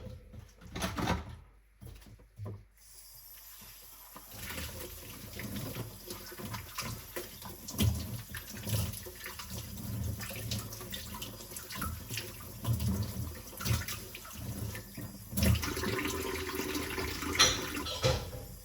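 Kitchen sink tap running while dishes are washed by hand, with knocks and clinks of crockery. The water starts about three seconds in and stops near the end.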